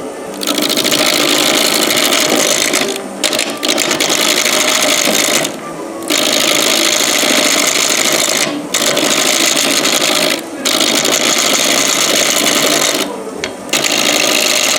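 Woodturning tool cutting a spinning 4x4 block on a Grizzly G0733 wood lathe. It makes a loud, rough, hissing cut, broken by five short pauses.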